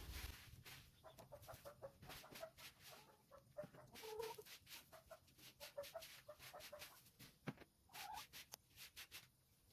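Domestic hens clucking softly, with many short scrapes and taps in between.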